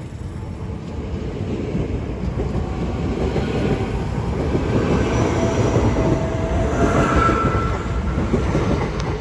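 Electric multiple-unit passenger train moving through the station, a rumble of wheels on track that grows louder over the first half, with a steady electric whine in the middle.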